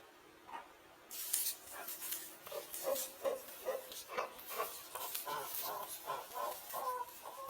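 Aseel chicken clucking: a run of short, low calls, about three a second, starting a couple of seconds in, over some rustling.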